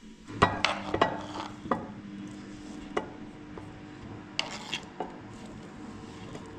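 Tableware clatter: a utensil and pieces of food clinking and knocking against a plate as food is served onto it. A quick run of sharp clinks comes in the first two seconds, then a few single knocks later.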